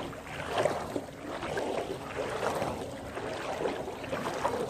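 Legs wading through knee-deep floodwater, with irregular sloshing and splashing at each step.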